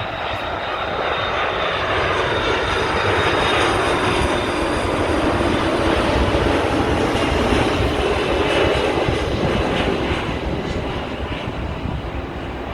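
Jet engines of a Qantas Airbus A330 on landing approach passing close by: a rushing roar that swells to its loudest midway, then fades. A faint high whine sinks slightly in pitch in the first seconds.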